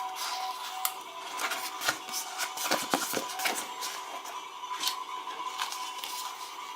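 Toy packaging being handled and opened by hand: a quick run of crinkles, clicks and small knocks, busiest in the middle, over a faint steady hum.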